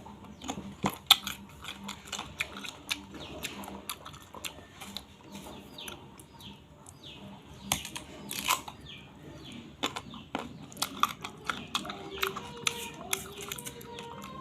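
Chewing and crunching of food, with many sharp clicks and mouth smacks. Behind it come short, repeated falling chirps, like a bird's, for a few seconds in the middle.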